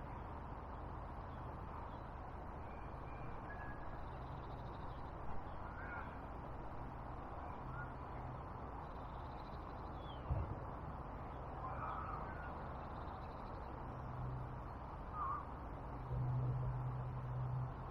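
Several short bird calls a few seconds apart over a steady rushing background, with a single knock about ten seconds in.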